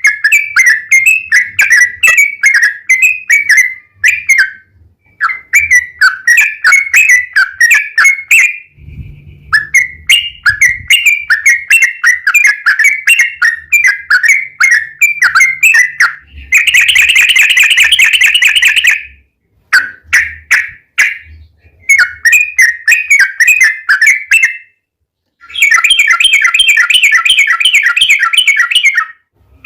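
Yellow-vented Bulbul (trucuk) song: runs of quick, bubbly whistled notes broken by short pauses, with a long unbroken rolling trill about halfway through and another near the end.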